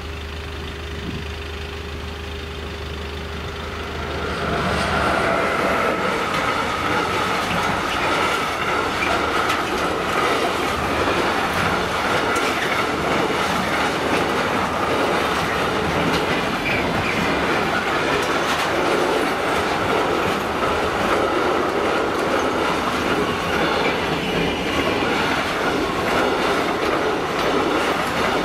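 Intermodal freight train of tank containers and shipping containers rolling past over a level crossing: wheels clattering rhythmically over the rail joints, with a steady high ring from the wheels running through it. The train arrives about four seconds in, loud from then on; before that only a low steady hum.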